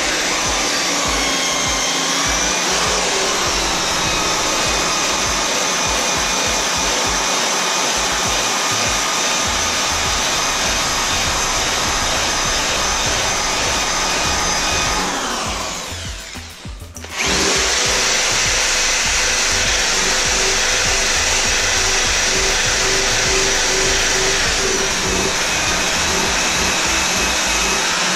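Handheld electric power tool running steadily while stripping paint from bare sheet metal. It cuts out briefly a little past halfway, then starts up again.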